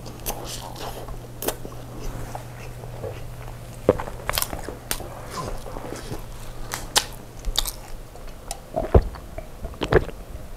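Close-miked chewing of a mouthful of Turkish chicken kebab wrap: wet mouth clicks and smacks. Near the end, a few louder gulps as he drinks from a metal tumbler.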